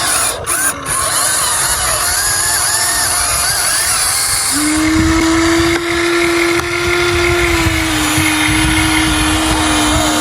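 Small electric motors of a radio-controlled toy excavator whining, over a steady noisy background. A steady whine starts about four and a half seconds in and holds.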